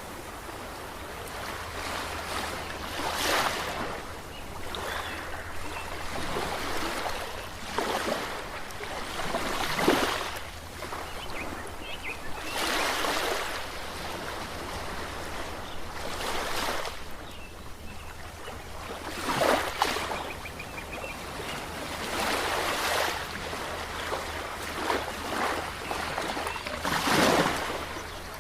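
Ocean waves breaking and washing in. Each surge swells and fades over a second or two, one every two to four seconds, over a steady low rumble.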